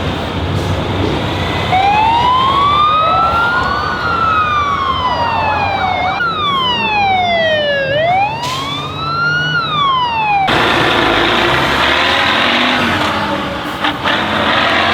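Vehicle siren wailing, its pitch rising and falling in slow sweeps of about two seconds each over a low engine rumble. About ten seconds in it switches to a harsher, buzzing tone.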